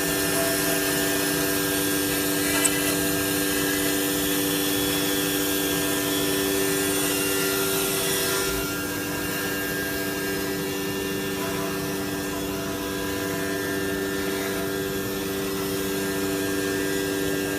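CNC wood router running, its spindle at 18,000 rpm giving a steady whine under the hiss of the bit cutting a wooden door panel. About eight and a half seconds in the cutting hiss lessens and the machine runs on slightly quieter.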